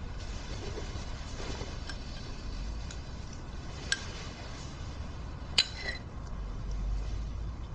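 Low, steady room hum with a few light clinks, the loudest with a brief ring about two-thirds of the way through.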